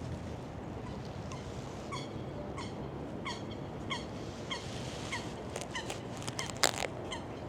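A bird calling over and over: short, falling calls about every two-thirds of a second, with a brief loud noisy sound near the end over a steady low background rumble.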